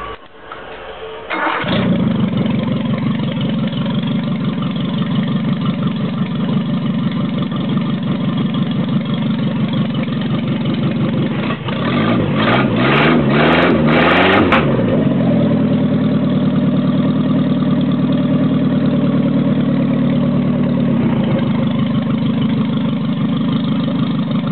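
Newly fitted engine of a Renault 16 starting about a second in, catching at once and settling into a steady idle. About halfway through it is revved several times, pitch rising and falling, then drops back to idle.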